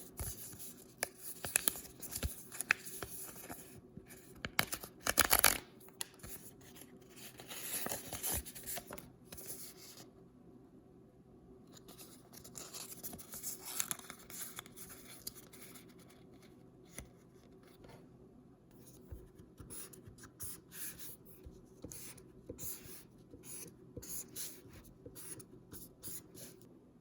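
Hands handling and opening blind-bag toy packaging: scratchy paper rustling and tearing with small clicks, in irregular bursts with a short lull partway through.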